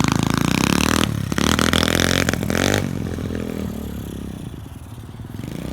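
SSR 125 pit bike's single-cylinder four-stroke engine revving hard for about three seconds, then dropping back and growing quieter.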